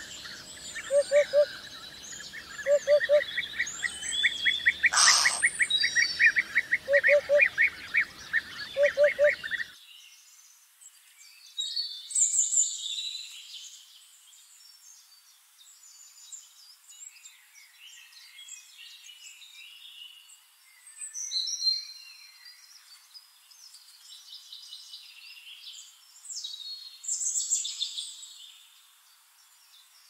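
Eurasian hoopoe calling its low hollow 'oop-oop-oop', in short groups of two or three notes four times, over busy twittering and a fast trill from other birds. Near ten seconds the sound cuts to a quieter scene, where other songbirds give sparse high chirps and whistles in spells a few seconds apart.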